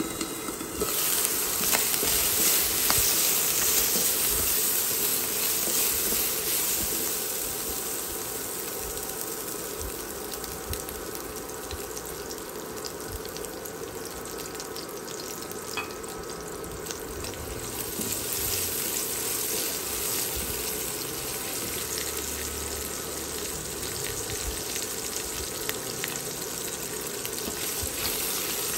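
Meat and onion pieces sizzling and frying in a wok, stirred and scraped with a silicone spatula. The sizzle comes on loud about a second in, then settles to a steady fry.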